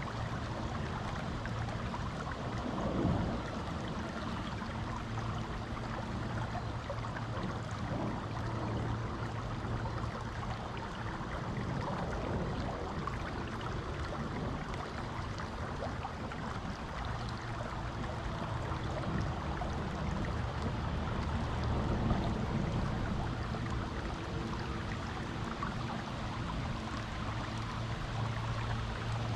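Creek water rushing steadily over rocks, with a few brief louder splashes, the first about three seconds in. A faint low hum comes and goes beneath it.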